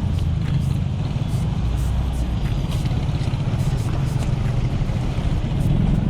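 Wind rumbling steadily over an action camera's microphone while riding a bicycle on a road.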